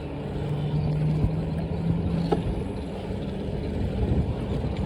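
Wind rumbling on the microphone, mixed with road noise, while riding a bike, with a steady low hum through the first two seconds or so.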